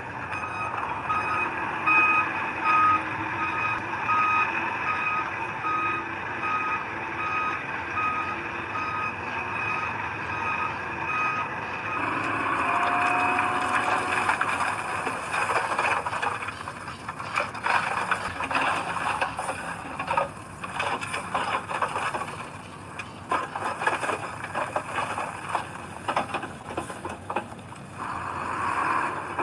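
A heavy construction vehicle's reversing alarm beeping steadily over its running diesel engine, evenly spaced at about two beeps a second, stopping about twelve seconds in. After that the heavy machinery keeps working, with irregular clanks and rattles.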